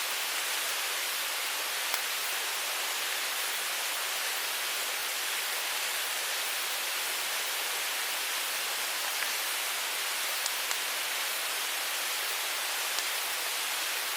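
Mountain stream flowing with a steady rushing hiss, with a few faint clicks now and then.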